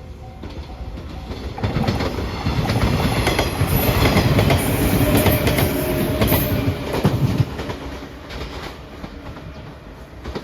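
A train passing over a level crossing, its wheels clacking over the rail joints; it builds up about a second and a half in, is loudest in the middle and fades over the last few seconds. A level-crossing warning bell rings in steady pulses at the start.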